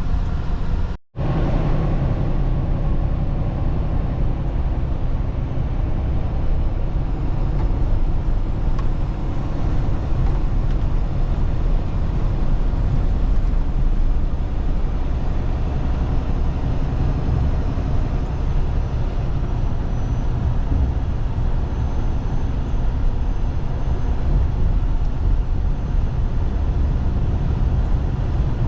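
Steady engine and road noise of a vehicle being driven through city streets, a dense low rumble. It cuts out completely for a split second about a second in.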